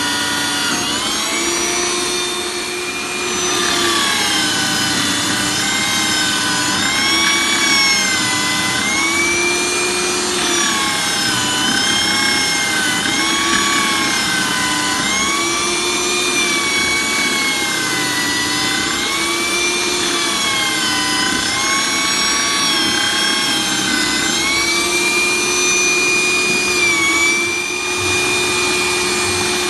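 Electric drill driving a homemade coconut grater, its motor whine sagging in pitch and recovering every couple of seconds as coconut is pressed against the grater, then running steady near the end.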